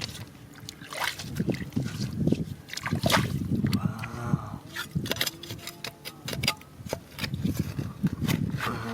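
Water splashing and sloshing in repeated surges, with many sharp clicks and knocks.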